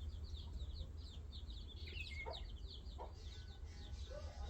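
Birds chirping in a rapid, continuous chatter, with a couple of lower clucking calls about two and three seconds in, over a steady low rumble.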